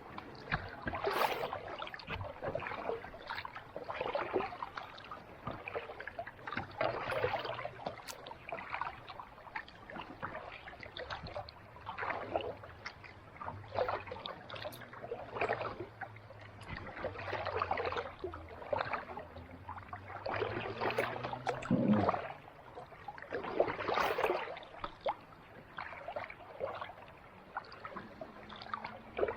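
Kayak paddle strokes in calm sea water: a splashy swish about every two seconds as the blade dips and pulls through.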